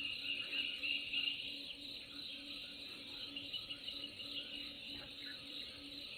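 Nature ambience of insects chirping steadily, with a dense trilling chorus.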